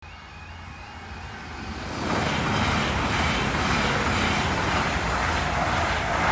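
CrossCountry Voyager diesel multiple unit approaching and passing a level crossing at speed: a rising rumble that becomes a loud, steady rush from about two seconds in as the train goes by. A faint alternating high tone, the crossing's warning alarm, sounds in the first two seconds.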